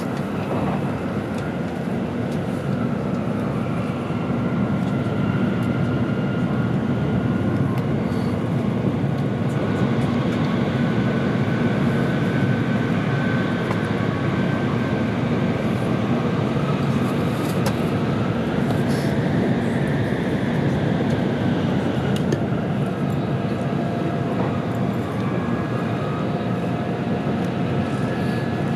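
Cabin noise inside an N700-series Tokaido Shinkansen running at speed: a steady rumble and rush of wheels, track and air, with a faint high whine above it.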